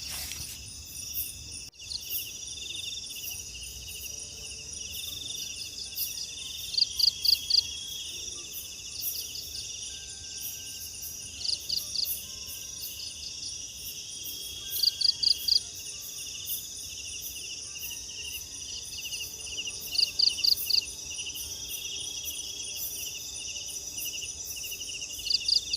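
Night chorus of crickets and other insects, steady and dense, with a louder call of three or four quick chirps repeating about every four to five seconds.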